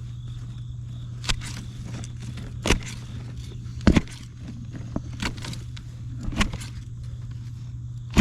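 Hedge clippers snipping through sweet potato stems: sharp cuts a second or so apart, about five in all, the loudest a quick double snip about four seconds in.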